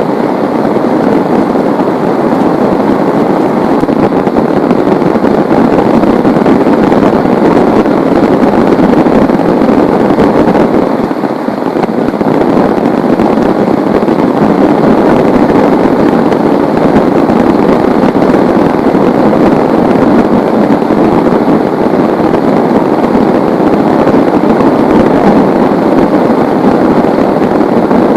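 Heavy rain pouring down, a loud, steady hiss that eases slightly for a moment about eleven seconds in.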